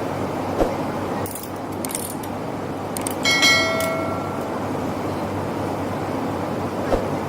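A metallic jingle and clink about three seconds in, with a few high ringing tones that fade within a second, over a steady rush of noise; a few sharp clicks come just before it and two soft thumps near the start and end.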